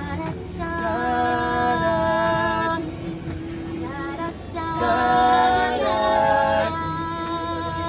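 A cappella vocal group singing wordless sustained chords in close harmony, in two phrases with a short lull a little after three seconds in.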